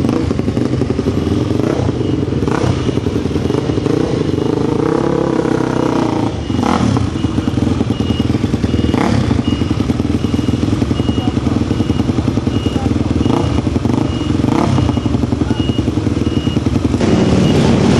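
Racing motorcycle engines running, with a rev that rises and falls about five seconds in.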